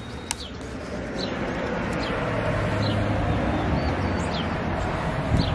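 Birds chirping outdoors, short high calls that fall in pitch, roughly one every second. Underneath runs a steady low rumble and hiss, with a single sharp click near the start.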